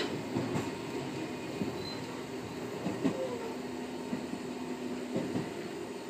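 Echizen Railway electric railcar running along snow-covered track, heard from inside the driver's cab: a steady rumble of wheels and motor with a low hum and occasional knocks.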